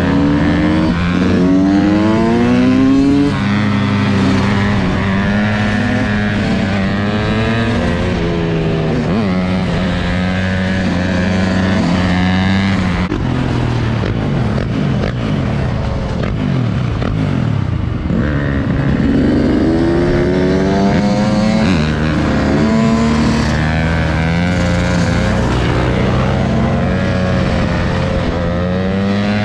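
Dirt bike engines running and revving, their pitch rising and falling repeatedly as the throttle is opened and closed.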